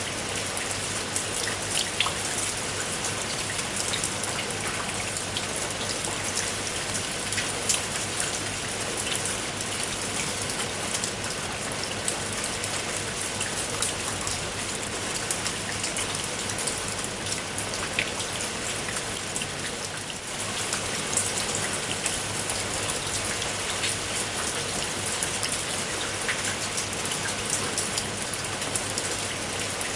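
Steady rain with many individual raindrops pattering in a dense hiss, with close drops ticking out sharply here and there.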